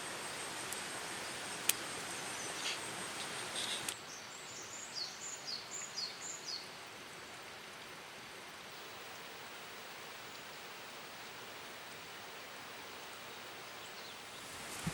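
Outdoor ambience with a steady hiss and a few light clicks and rustles. About four seconds in, a bird calls a quick run of high, down-slurred chirps.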